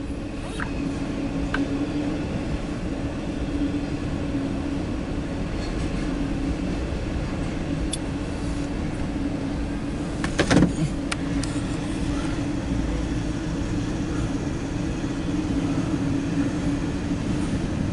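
An engine idling: a steady low hum with a constant drone, and a brief louder bump about ten and a half seconds in.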